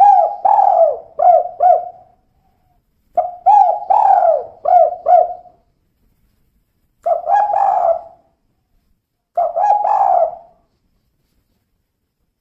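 Female spotted dove cooing: four phrases of repeated low coos with silent gaps between. The first two phrases are longer, about four or five notes each, and the last two are shorter.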